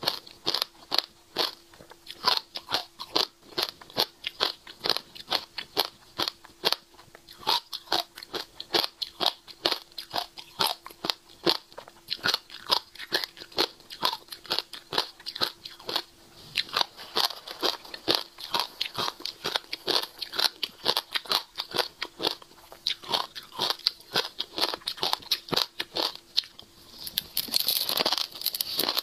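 Close-miked chewing of a mouthful of dried passion fruit seeds: dense, sharp, irregular crunching and crackling. Near the end the crunching pauses briefly and gives way to a rustle as a fresh handful of seeds is lifted to the mouth.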